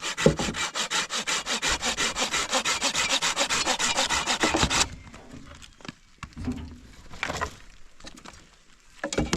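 Rapid, very even rasping strokes, about nine a second, like sawing or rasping wood, that cut off abruptly about five seconds in; a few scattered knocks follow.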